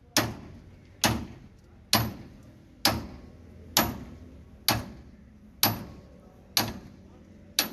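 Steady hammer blows during tractor tyre work, about one a second, nine in all, each sharp strike followed by a short ring.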